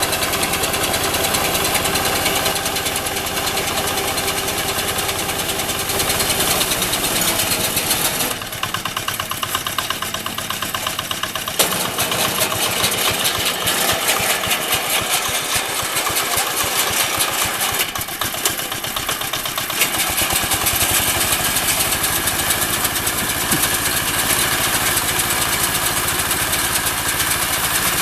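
Mini rice harvester's engine and machinery running continuously. The sound changes abruptly several times, about 8, 12, 18 and 20 seconds in.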